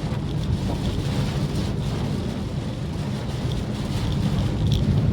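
Maruti Suzuki Swift Dzire driving on a wet road: a steady low rumble of engine and tyre noise, with faint light ticks over it.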